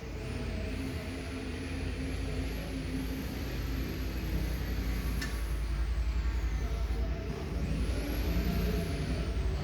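Yamaha XVS1300CU Stryker's 1304 cc V-twin engine running steadily at idle, a low, evenly pulsing rumble.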